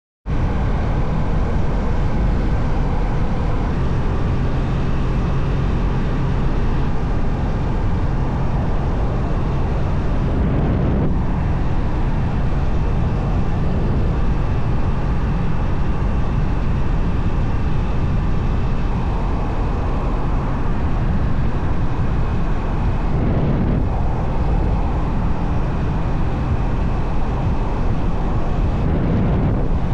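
KTM 390 Duke's single-cylinder engine running at a steady speed on the move, with heavy wind noise on the microphone.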